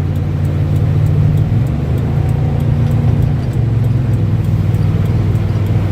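Stock 5.7 V8 of a 1997 Chevrolet Silverado running through a Dynamax bullet muffler, heard from inside the cab at freeway speed: a low exhaust drone that eases down in pitch a couple of times, with wind noise from a partly open sunroof.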